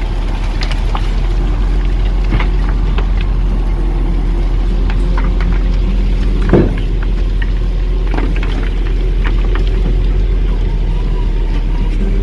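Volvo grapple truck's engine running steadily with the power take-off engaged, driving the hydraulic grapple. Scattered knocks and cracks sound over it, the loudest about six and a half seconds in.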